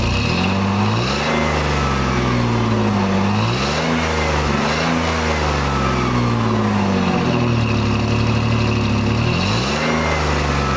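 A 2002 Jeep Liberty Limited's 3.7-litre V6 engine idling and being revved in several short blips, climbing in pitch and falling back to idle each time.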